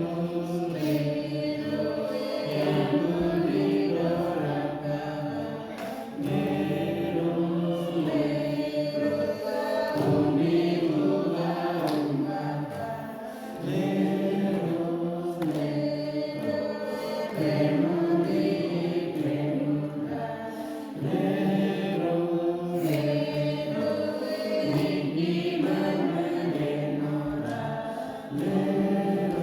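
A choir singing a praise song together in phrases of a few seconds, the voices rising and falling.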